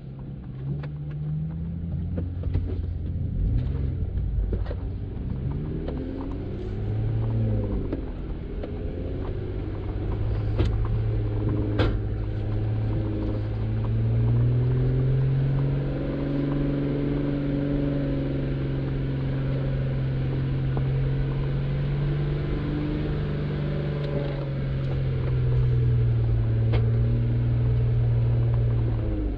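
Jeep Wrangler Unlimited Rubicon engine running at low speed off-road, its pitch shifting up and down with the throttle. A few sharp knocks cut through it, two close together near the middle.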